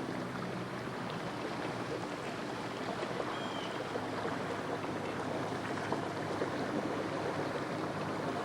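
Steady wash of water and outdoor noise with the faint hum of a distant small watercraft engine.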